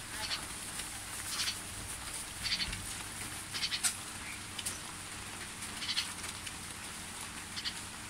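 A bird giving short, raspy high-pitched calls, about eight of them at irregular intervals, over a faint steady low hum.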